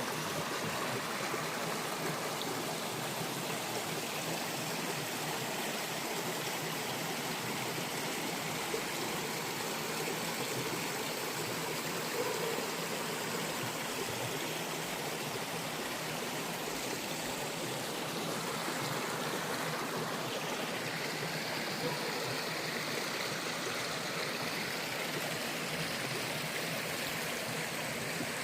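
A stream running steadily: an even, continuous sound of flowing water.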